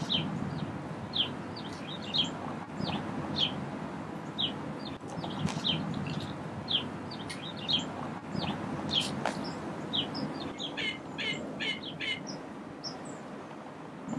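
Small birds chirping: short, high, downward-slurred notes about once a second, with a quicker run of repeated notes near the end, over steady low background noise.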